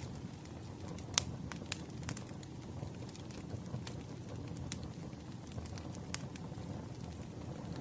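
Campfire of burning firewood crackling: a steady low rumble of flames with scattered sharp pops and snaps, the loudest a little over a second in.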